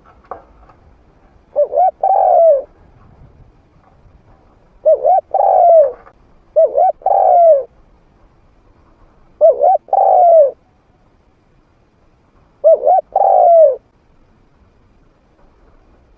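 Spotted dove cooing, a decoy bird's call used to lure wild doves. There are five phrases, each two quick short coos followed by a longer coo that dips in pitch, spaced a few seconds apart.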